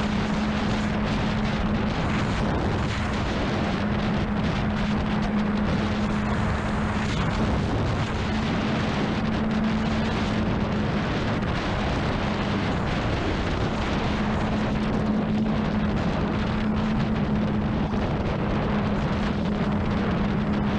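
Honda CBR600RR's inline-four engine holding a steady note at constant speed, under heavy wind rush on the microphone.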